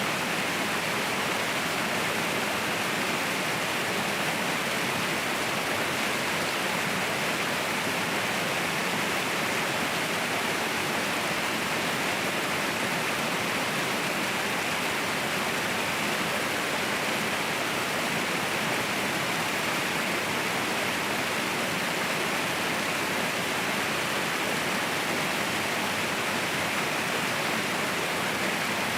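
Mountain waterfall, water pouring and crashing in a steady, unbroken rush.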